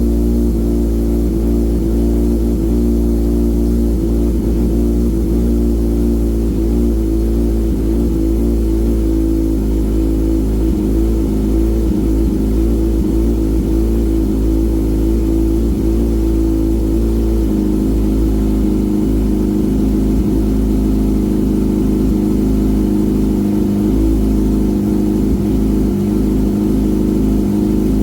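Kawasaki ZX-6R 636 inline-four idling steadily through an M4 GP19 aftermarket exhaust while warming up after a cold start. The idle speed drops to a lower, deeper idle a little past halfway.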